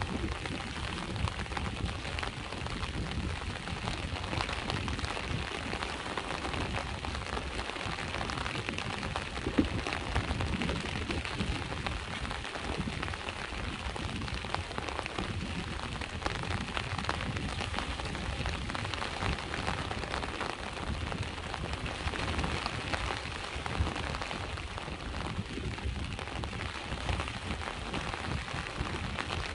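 Steady rain falling on a hard surface, full of small drop ticks, over the low, continuous wash of sea waves. One louder tap stands out about nine and a half seconds in.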